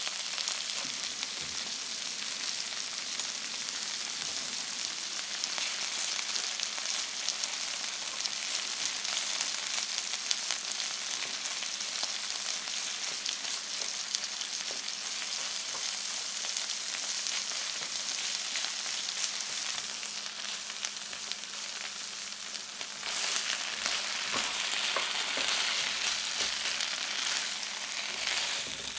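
Beef strips, new potatoes and sliced shallot frying in oil in a frying pan: a steady sizzle, with the small scrapes and taps of a spatula stirring the shallot. The sizzle grows louder about three-quarters of the way through.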